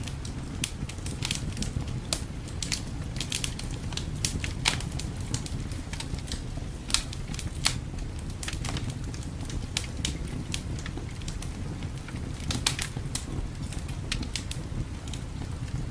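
Fireplace fire crackling, with irregular sharp pops and snaps, several in quick clusters, over a steady low rumble of winter wind.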